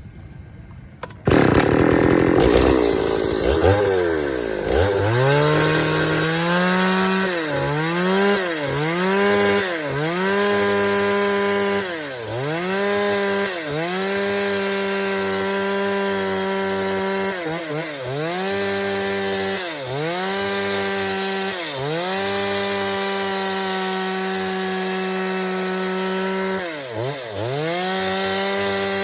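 A chainsaw comes in suddenly about a second in and runs at high speed, its engine note dropping and climbing back again about every second at first, then holding steady for several seconds between the dips.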